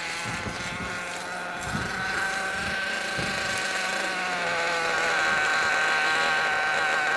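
Small two-stroke nitro engine of a radio-controlled car running at high revs: a steady, high-pitched buzz that wavers slightly in pitch and grows louder about five seconds in.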